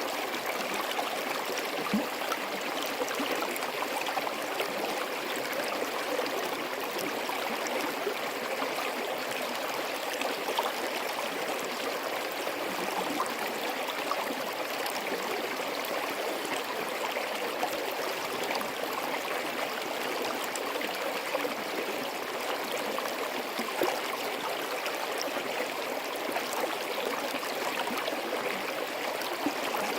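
Forest stream running over rocks: a steady rush of water with constant small splashes and gurgles.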